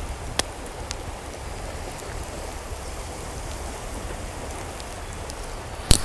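Steady rain falling, with a few sharp drop-like taps and one loud click just before the end.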